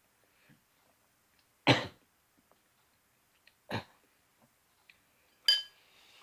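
Two short coughs about two seconds apart, then a utensil clinking against a dish with a brief ringing tone near the end.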